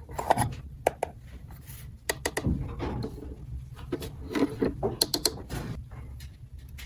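Small plastic toy pieces being handled, with a series of sharp clicks and short clattering rattles at uneven intervals.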